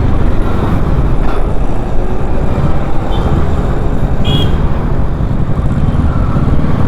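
Kawasaki Ninja 650's parallel-twin engine running while the bike is ridden through traffic, under a dense steady low rumble of road noise. A short vehicle horn toot sounds about four seconds in.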